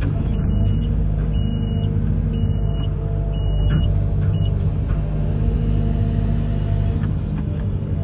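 Amphibious excavator's diesel engine running steadily at working speed, a deep, even rumble. A faint high beep sounds about once a second and stops about halfway through.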